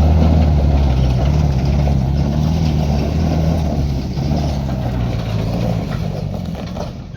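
Motor vehicle engine running loud and close at a steady low pitch, then fading away over the last couple of seconds as it moves off.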